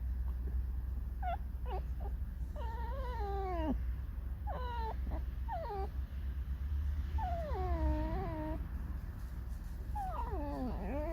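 Pet fox whining and squeaking: a string of high, wavering calls that slide down and back up in pitch, a few short squeaks and several drawn-out cries over a second long.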